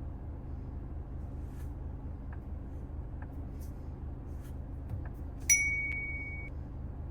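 Mazda CX-5 cabin alert chime: a single bright electronic ding about five and a half seconds in, ringing for about a second, over a steady low drone of engine and road noise inside the car.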